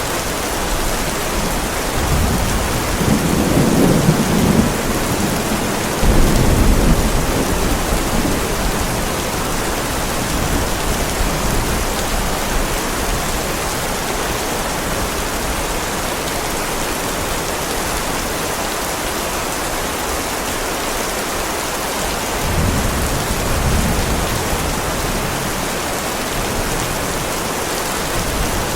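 Heavy rain pouring steadily onto a driveway, with thunder: a low rumble a couple of seconds in, a sharper, louder clap about six seconds in, and another low rumble about three-quarters of the way through.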